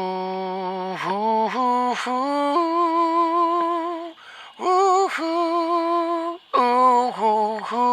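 A solo voice singing wordless 'ooh' notes with vibrato, each held for a second or more. The notes step upward and settle on a long higher note, broken by a few short pauses between phrases.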